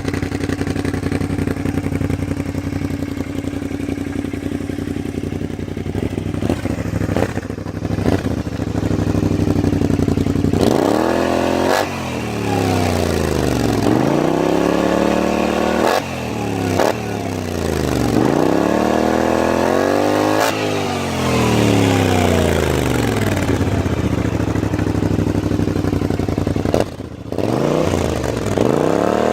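Kymco AK 550 maxi-scooter's parallel-twin engine through an Akrapovic exhaust, idling steadily for about ten seconds and then revved repeatedly in neutral. The pitch climbs and falls back with each throttle blip, about five times, with a short drop to idle near the end.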